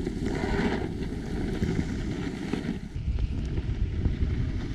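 Wind buffeting the camera microphone as a low, uneven rumble.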